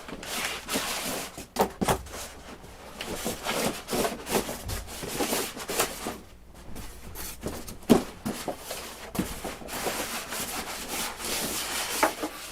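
Irregular rubbing and scraping with a few light knocks: hands handling foam model airplane parts and their box packaging.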